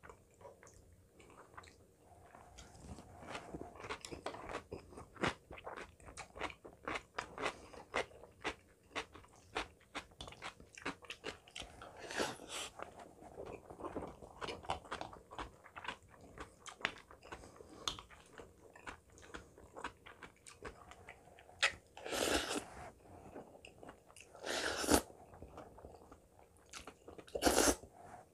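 Close-up chewing and crunching of food: a steady run of small crunchy bites and mouth clicks from eating curry rice with crunchy kimchi and pickle side dishes. A few louder slurps cut through, the last of them near the end as a spoonful of curry goes into the mouth.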